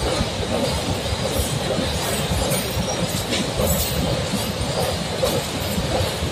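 BCACBM bi-level car-carrier freight wagons rolling past at speed: the steady, even noise of the wagons' wheels running on the rails.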